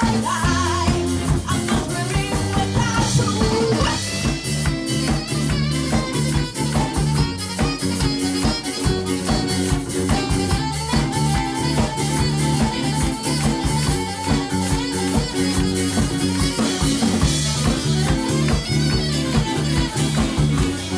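Live band playing an upbeat instrumental passage: drum kit keeping a steady beat under bass and electric guitar.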